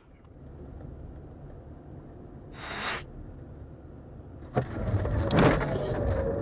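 Dashcam recording of steady road and engine rumble, then a little over four seconds in a sudden loud vehicle collision: crunching impacts and a held screech of scraping metal or tyres.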